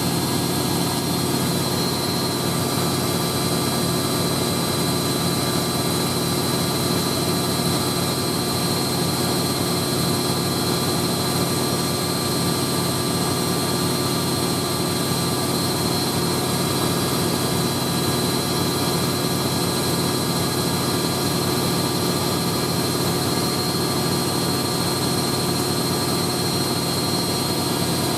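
Hoover A3060 Electronic 1100 twin-tub-era front-loader washing machine in its 1100 rpm final spin: motor and drum running at a steady top speed with a constant whine over a low rumble, smooth and even.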